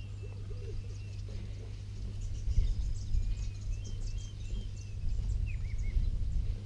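Wetland birds calling: many short chirping calls throughout, with a low, repeated cooing call in the first second and a quick flurry of high chirps in the middle, over a steady low rumble.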